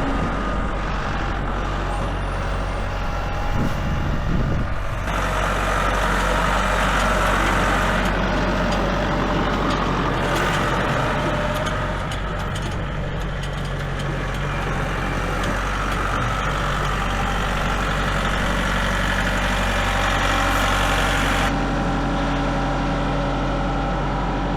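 Engine running steadily at constant speed, its sound changing in character about five seconds in and again near the end.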